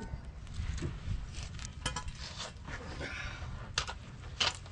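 Metal exhaust pipe and muffler parts clinking and clanking as they are handled and test-fitted: a series of sharp clinks, a few of them ringing briefly.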